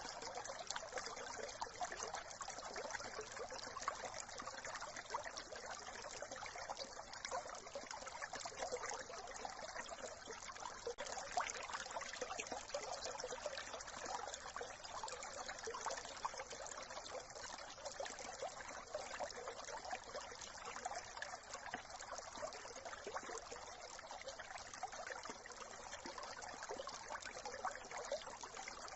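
Small brook running steadily, a dense, even patter of tiny splashes.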